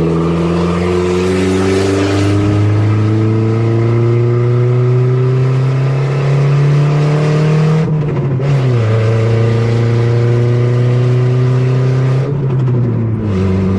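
Mitsubishi Evo's turbocharged four-cylinder running with no exhaust, heard from inside the car under acceleration. The engine pitch climbs steadily, drops at a gear change about eight seconds in, climbs again, and drops at another shift near the end.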